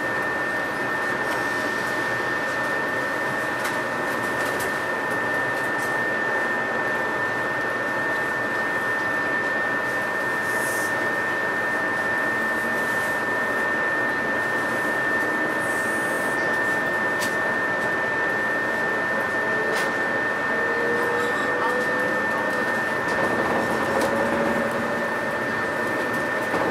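Cabin noise of a JR West 117 series electric multiple unit: a steady running rumble and hiss with a constant high tone over it. A faint whine rises in pitch near the end.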